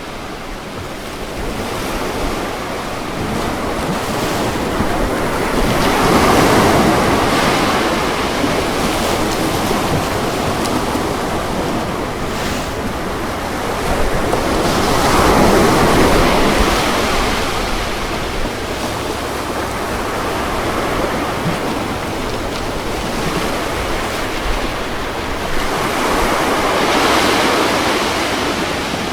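Ocean waves breaking on a shore, a steady wash of surf that swells three times, about every nine or ten seconds, as each wave crashes, and ebbs between.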